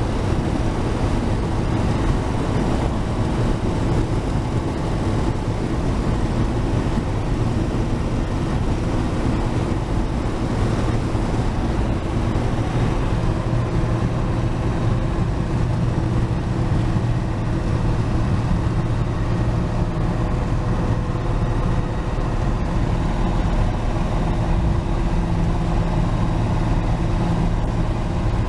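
1949 Chevrolet 3100 pickup's 235 straight-six with dual exhaust, running steadily at cruising speed along with road noise.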